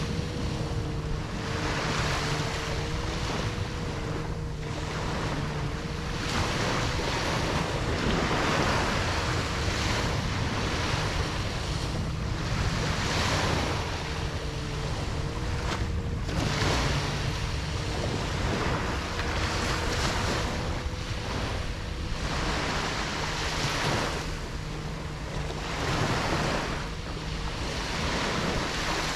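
Ocean surf: waves breaking and washing in one after another, swelling and fading every few seconds, over a low wind rumble. A faint wavering hum runs underneath.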